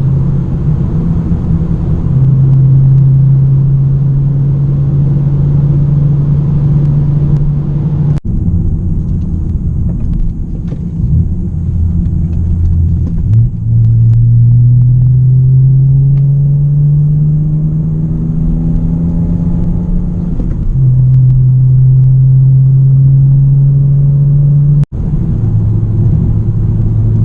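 Straight-piped exhaust of a BMW E90 under way. The engine note holds steady, drops lower, then climbs steadily for several seconds as the car pulls, levels off, and breaks off abruptly twice.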